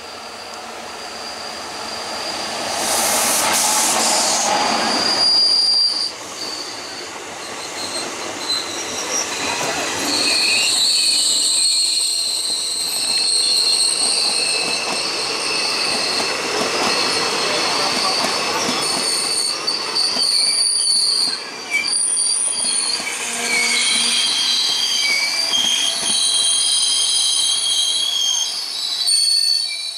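Electric locomotive and passenger coaches running past close by at speed. The rushing wheel-and-rail noise swells as the locomotive goes by a few seconds in. The coaches follow with a steady run of rail noise and high-pitched wheel squeal.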